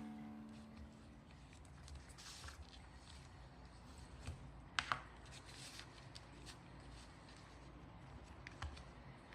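Faint handling noises: soft rustles and a few sharp clicks, two close together about five seconds in and one more near the end, after background music fades out at the start.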